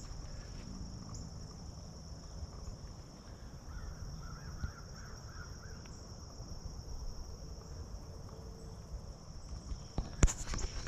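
Outdoor ambience with a steady high-pitched hum, a short series of faint animal calls about four seconds in, and a sharp knock near the end.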